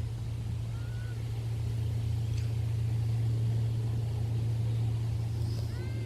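A steady low hum, with a couple of faint short chirps over it.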